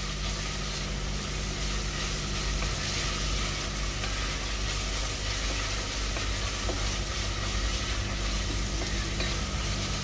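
Onions frying in hot oil in a pan for a curry base, with a steady sizzle that has softened them.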